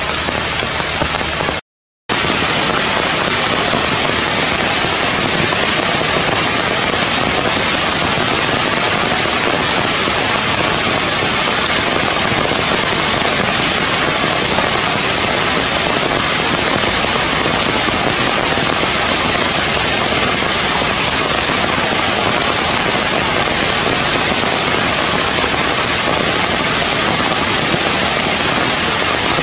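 Heavy rain falling steadily, broken by a brief moment of silence just under two seconds in.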